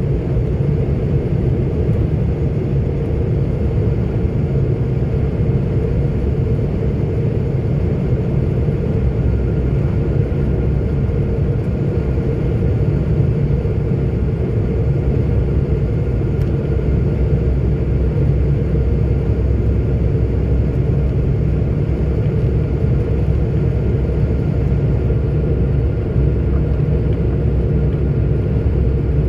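A 44-ton articulated truck cruising on the open road: a steady low rumble of diesel engine and tyre noise, with a faint steady whine above it.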